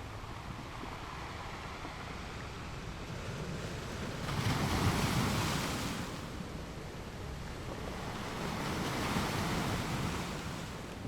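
Ocean waves breaking on the shore. A wave crashes sharply about four seconds in and washes away over the next two seconds, and a gentler one swells and recedes near the end.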